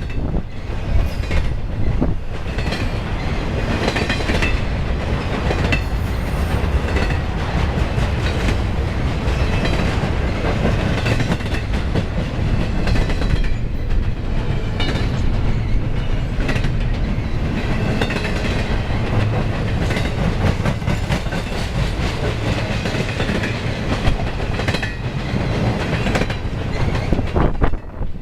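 Long intermodal freight train rolling past, its wheels clattering steadily over the rail joints with irregular clicks and knocks.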